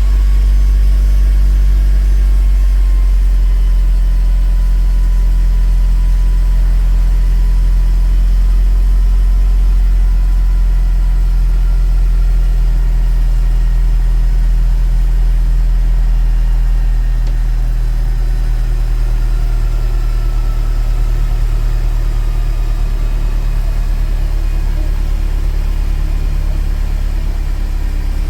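Mercedes-Benz W204 C200's four-cylinder engine idling through an aftermarket FOX quad-tip exhaust, freshly started, with a steady deep exhaust note. A little past halfway the idle eases down slightly and goes a bit quieter.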